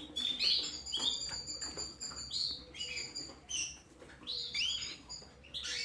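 Caged canaries chirping: many short, high calls, several sliding up or down in pitch, overlapping from more than one bird, with a few light clicks among them.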